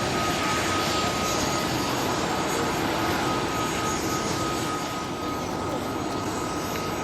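Airbus A330-900 airliner's Rolls-Royce Trent 7000 jet engines running during its take-off, a steady distant roar with a constant high whine in it.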